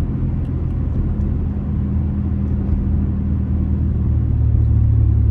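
Straight-piped 2004 Honda Accord's 2.4-litre K24A four-cylinder engine and exhaust droning steadily while driving, heard from inside the car; the drone grows a little louder about four seconds in.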